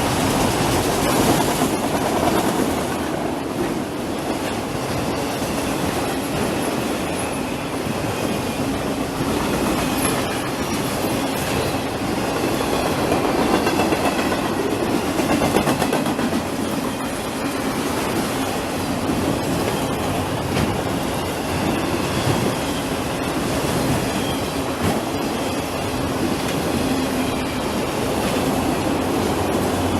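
Train cars rolling past: a steady run of wheel clatter over the rail joints, with faint wheel squeal now and then.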